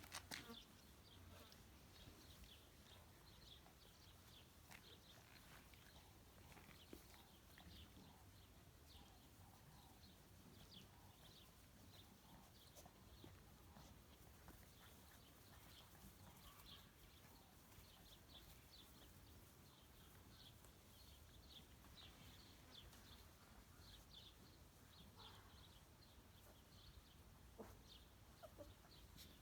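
Near silence with faint animal calls: many short, high chirps or squeaks scattered throughout.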